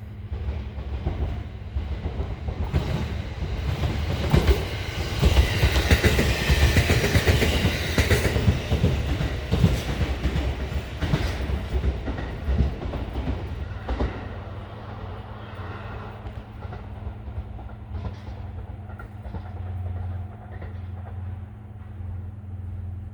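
Shinano Railway SR1 series electric train passing close by, its wheels clattering over the rail joints. It grows louder over the first few seconds, is loudest a few seconds in, then fades away.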